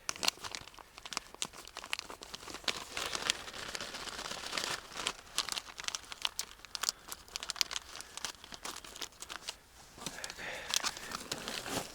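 Close, irregular rustling and crinkling of material being handled, with many small crackles, as the camouflage of a hunting hide is pulled about and arranged.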